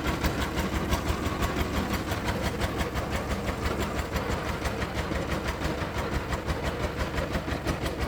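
Diesel engine running steadily at idle, with an even, rapid pulsing beat.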